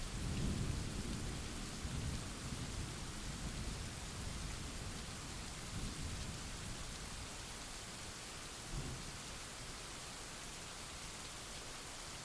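Steady rain hiss with a low rumble of thunder that swells right away, rolls on for about seven seconds and dies away, with one more short low rumble about nine seconds in.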